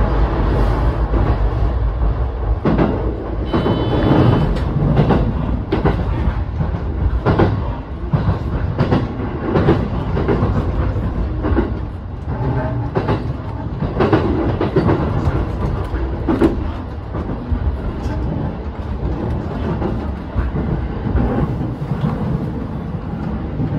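JR East E233 series 7000 electric train running with a steady rumble, its wheels clicking irregularly over rail joints and points as it runs into a station. There is a brief high tone about four seconds in.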